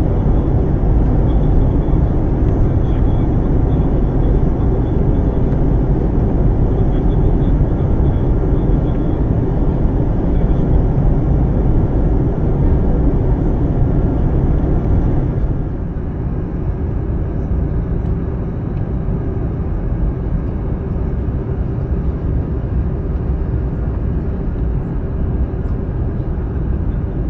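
Steady jet airliner cabin noise from an Airbus A320-family jet in flight: a low, even roar of engines and airflow heard from inside the cabin. About halfway through it drops suddenly to a slightly quieter, duller roar with less hiss.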